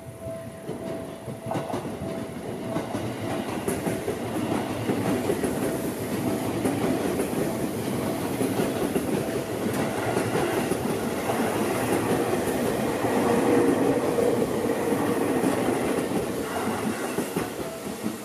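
Seibu 001 series Laview limited express train running past, its wheels clattering on the rails. The noise builds as it approaches, is loudest a little after the middle, and falls away near the end.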